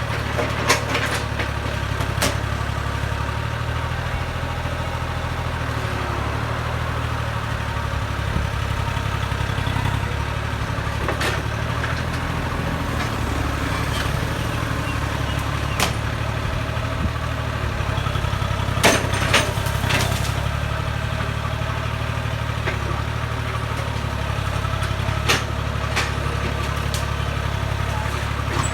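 Excavator diesel engine running steadily, with scattered sharp knocks and clanks, a brief cluster of them about two-thirds of the way through.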